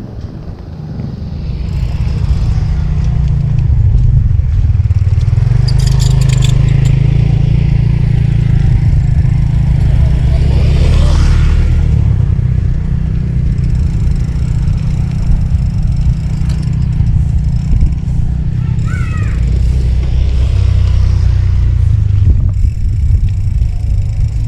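Wind buffeting the microphone of a camera on a moving bicycle: a loud, steady low rumble that swells in about two seconds in, with a brief clatter about six seconds in.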